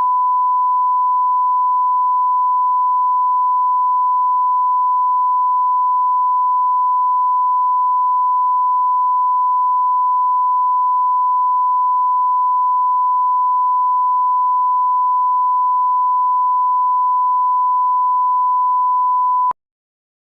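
Broadcast line-up tone from a bars-and-tone leader: a single steady, unwavering pure test tone used to set audio levels. It cuts off suddenly near the end.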